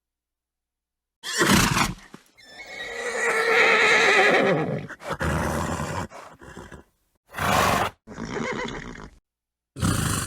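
Horse neighing: a long wavering whinny of about three seconds, preceded by a short blow and followed by several shorter horse calls and blows, each cut off into dead silence.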